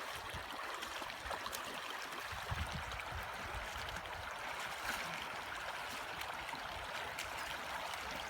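River water running steadily past the wading crossing, an even rushing of the current, with a few faint knocks.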